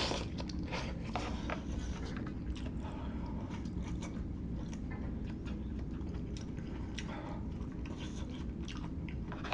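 A person chewing and biting food close to the microphone, with many small wet mouth clicks, over a steady low hum.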